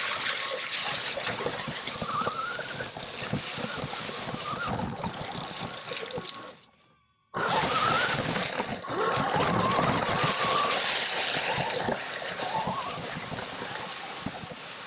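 RC truck driving through dry fallen leaves: a continuous crackling rustle with short rising whines from its electric motor. The sound drops out for under a second about halfway, then resumes.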